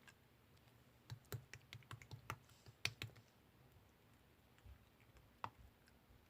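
Light clicking taps over near silence: about a dozen in quick succession starting about a second in, then a few scattered single clicks near the end.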